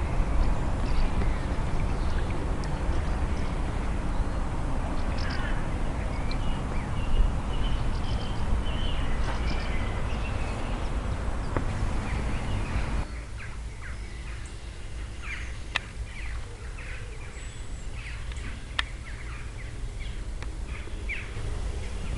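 Outdoor background rumble and hiss with birds calling; about thirteen seconds in it cuts to a quieter background where short bird calls stand out.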